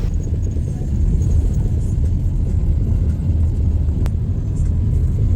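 Car driving along, its engine and tyres making a steady low rumble as heard inside the cabin. A single light click about four seconds in.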